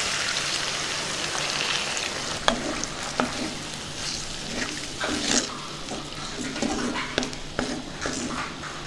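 Water poured into hot oil in a clay pot of frying chicken pieces sizzles, strongest at first and fading over the first couple of seconds. Then a wooden spatula stirs the pot, scraping against the clay in short strokes.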